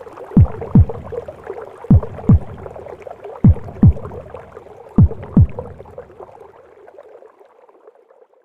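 A mother's heartbeat as heard in the womb: low double thumps, lub-dub, about every second and a half, over a steady noise of womb sounds. The beats stop about five and a half seconds in and the noise then fades out.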